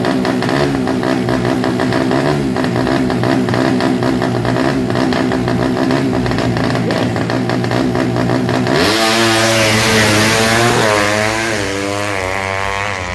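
A 200cc underbone drag bike's engine is held at high revs on the start line. About nine seconds in it launches, and the pitch climbs, drops and climbs again through several quick gear changes as it accelerates away.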